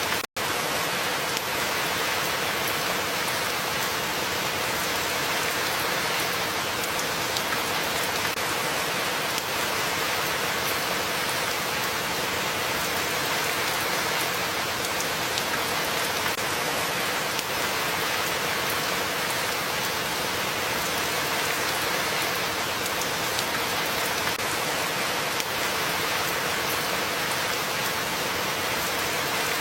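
Steady rain falling, an even hiss of drops on a surface, cutting out for an instant just after the start.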